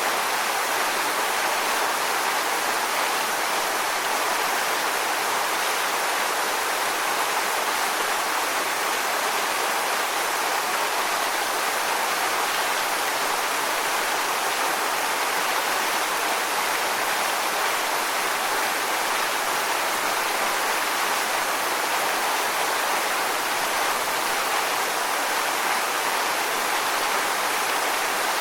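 Waterfall: water falling onto rocks in a steady, even rush, strongest in the mid and upper range, with no breaks or single splashes.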